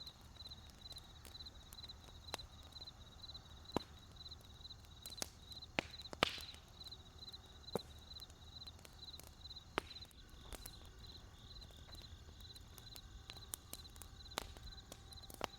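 Wood campfire crackling, with scattered sharp pops, the loudest about six seconds in. Crickets chirp steadily behind it in a high, even pulse of about two to three chirps a second.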